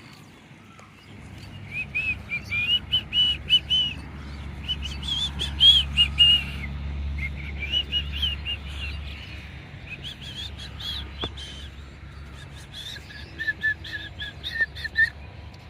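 A bird singing in repeated runs of quick, high chirping notes, several notes a second, with short pauses between the runs, over a low steady rumble.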